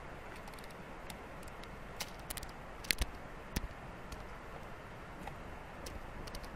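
Scattered light ticks and clicks, a few in a cluster about two to four seconds in, over a steady faint hiss.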